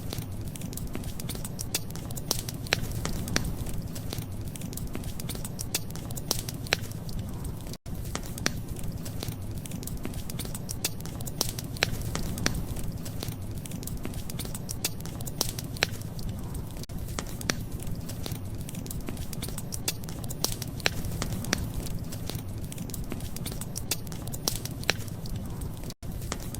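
Wood fire crackling: frequent sharp pops and snaps over a steady low rumble of burning. The sound cuts out for an instant twice, about 8 seconds in and near the end.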